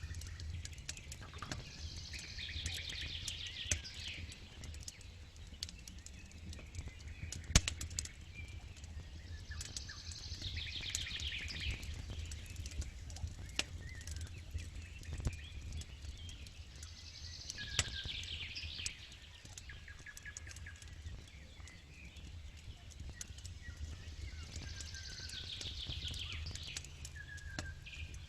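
A bird repeats the same short, rapid, falling song about every eight seconds, four times in all, over the crackling and popping of a campfire, with one sharp pop about seven and a half seconds in.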